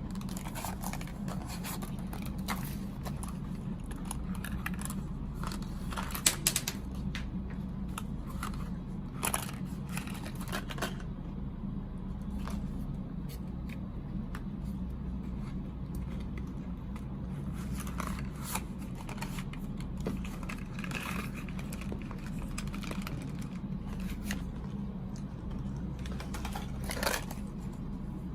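Snack packaging and utensils being handled: scattered crinkles, taps and scrapes over a steady low hum, with sharper clicks about six seconds in and again near the end.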